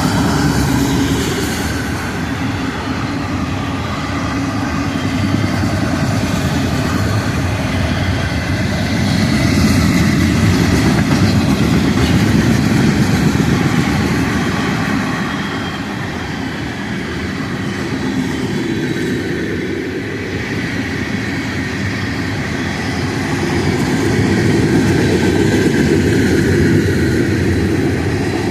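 Long Florida East Coast Railway freight train's cars rolling past, a steady heavy rumble of wheels on rail with some clickety-clack, swelling louder twice.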